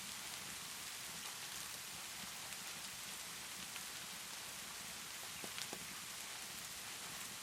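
Steady rainfall hiss with a few sharp pops of a crackling wood fire, a small cluster of them about five and a half seconds in.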